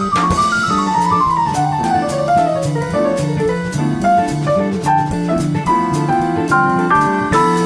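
Upbeat jazzy background music: piano runs with drums and brass.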